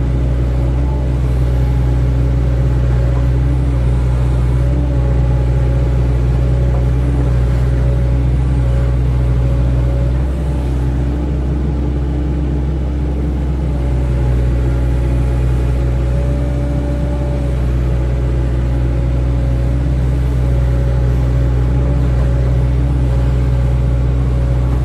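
Hydraulic excavator's diesel engine running steadily under work, its note dipping slightly about ten seconds in and picking up again a few seconds later.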